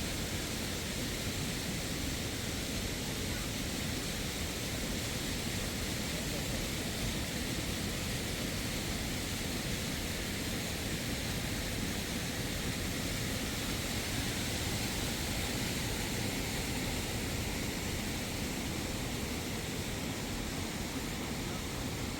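Steady rush of flowing water, an even noise that holds unchanged throughout.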